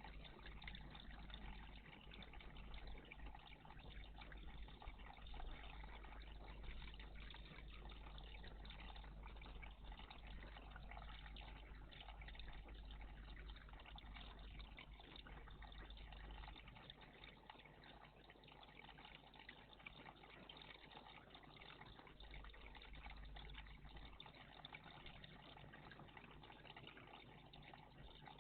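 Faint, steady trickling of water at a bird bath, with a low hum underneath.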